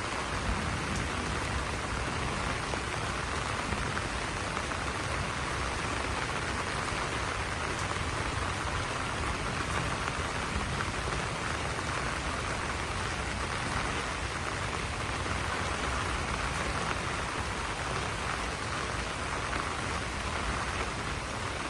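Steady rain falling on banana leaves, an even, unbroken hiss that holds the same level throughout.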